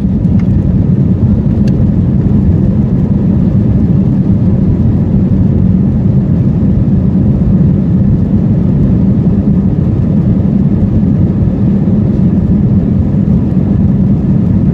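Airbus A320 jet engines at takeoff thrust, heard from inside the passenger cabin: a steady, loud, low rumble with rushing noise over it during the takeoff run.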